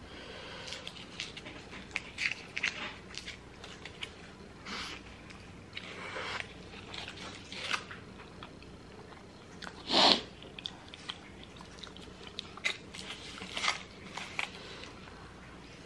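Close-up chewing and biting of an al pastor super burrito in a flour tortilla: short, irregular wet mouth sounds, with a louder one about ten seconds in.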